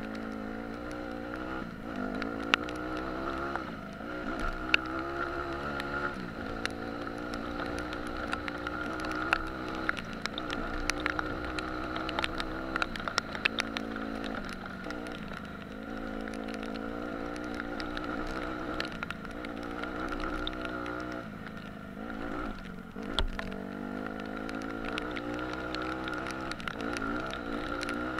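Dirt bike engine revving, its pitch climbing and dropping over and over as the rider works the throttle and gears, with scattered sharp clicks and knocks.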